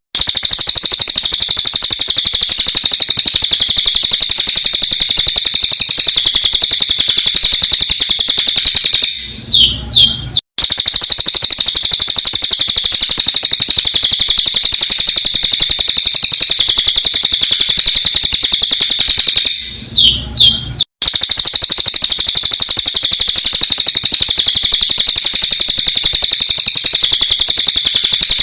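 Sped-up recording of a cililin songbird singing a continuous, very rapid, high-pitched trill. Twice the trill gives way to a few separate chirps and a brief cut before the loop starts again.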